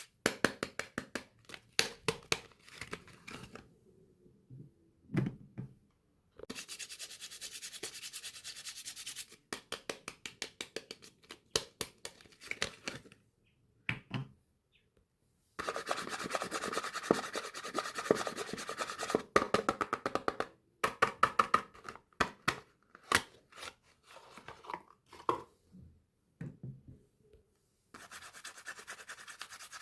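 Bars of soap being unwrapped by hand: packaging rubbing and scraping in stretches of a few seconds, with sharp taps and clicks between them and a few short silent gaps.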